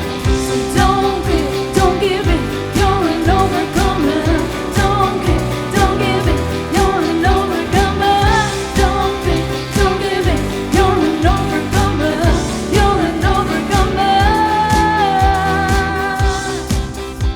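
A pop-style song: a singer's voice over band backing with a steady beat.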